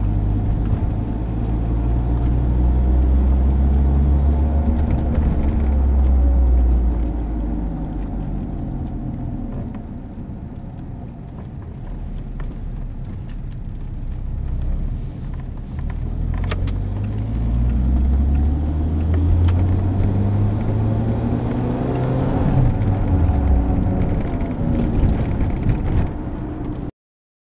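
Car on the move with a worn wheel bearing's low droning rumble, its pitch falling as the car slows, then rising again as it picks up speed. The sound cuts off suddenly near the end.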